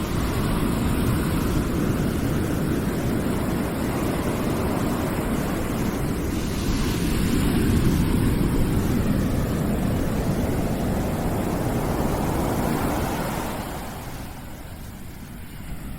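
Continuous rushing noise, heaviest in the low end, that swells and ebbs like surf, falling quieter about fourteen seconds in before building again.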